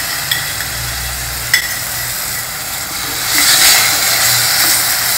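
Onion-tomato masala sizzling in a heavy pressure cooker base as freshly added tamarind water is stirred in with a wooden spatula. Two light knocks come in the first two seconds, and the sizzle swells about three and a half seconds in.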